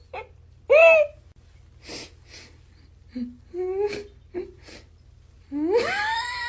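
An animal calling: a short call about a second in, several short calls a little past the middle, and one long call near the end that rises and then holds, with two short sneeze-like puffs between them.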